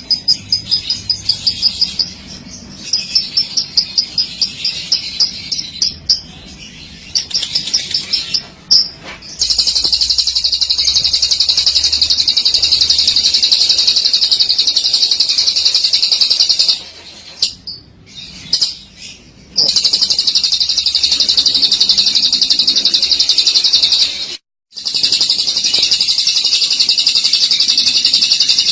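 Lovebird singing a long ngekek: first a run of evenly repeated high chirps, then rapid chattering trills held unbroken for several seconds at a time, with two short breaks.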